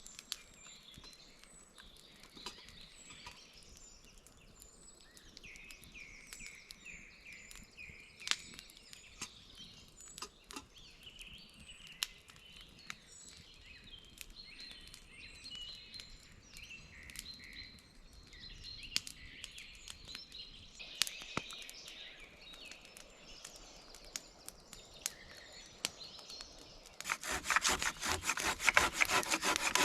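Wood being worked: scattered sharp snaps and clicks, with small birds chirping throughout. Near the end comes a louder run of quick rhythmic rasping strokes, like sawing.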